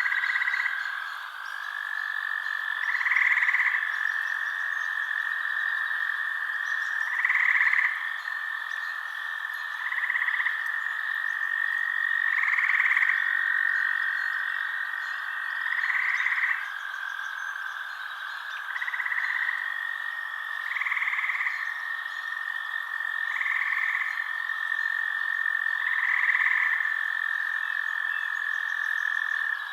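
Night frog chorus: short calls repeating every two to three seconds over a steady, continuous high trill.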